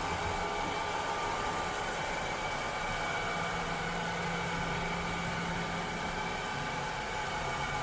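Robot vacuum cleaner running steadily: an even whirring hiss with several steady high tones, and a low hum that comes in for a few seconds in the middle.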